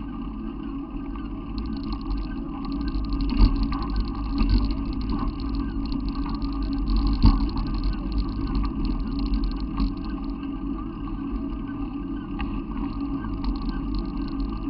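Steady low engine rumble with a constant hum, as of a running vehicle, with a few small knocks.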